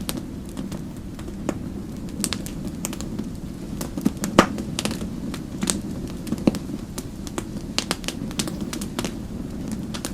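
Wood fire crackling: irregular sharp pops and snaps over a steady low rumble of the flames, with one louder pop about four seconds in.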